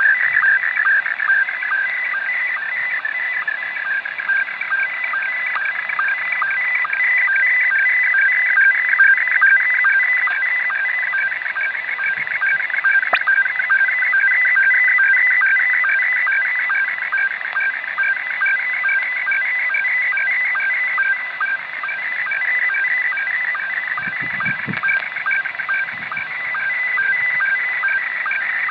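Slow-scan television (SSTV) image signal received over a shortwave radio: a continuous stream of fast-changing electronic tones, broken by regular short sync pulses, heard through the receiver's narrow, slightly hissy audio.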